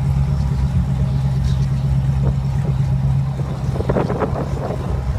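Car engine idling steadily with a deep, even drone. Faint voices come in about four seconds in.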